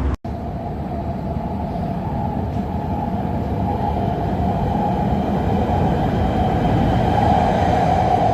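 Commuter train running on rails: a steady rumble with a hum-like band in the middle range, growing gradually louder.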